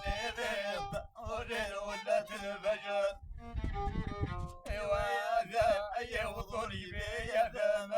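Instrumental folk music led by a violin playing a wavering, ornamented melody, with drum beats underneath.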